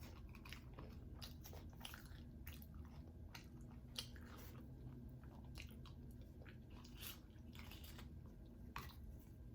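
A person quietly chewing and biting food close to the microphone, with scattered soft mouth clicks and small crunches.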